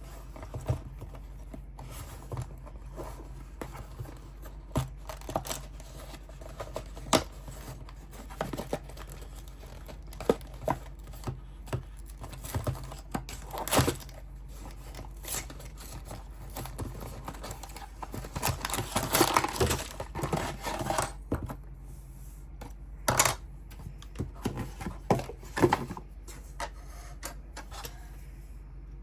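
Packaging of a Lego set being opened and handled: tearing and crinkling, with scattered sharp clicks and taps, and a denser stretch of rustling about two-thirds of the way through.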